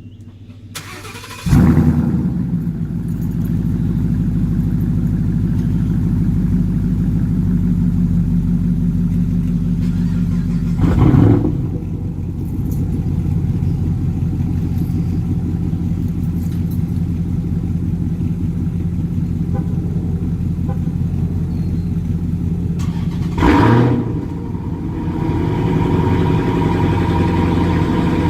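Three car engines (a 2017 GT, a 2015 R/T and a 2012 SS) cold-starting one after another, about ten seconds apart. Each start is a short loud flare of revs that settles into a steady fast idle, and the idling carries on between the starts.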